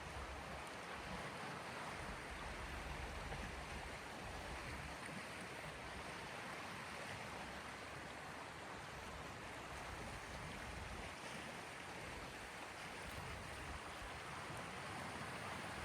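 Small sea waves washing on the shore in a steady, even rush, with a low rumble that comes and goes.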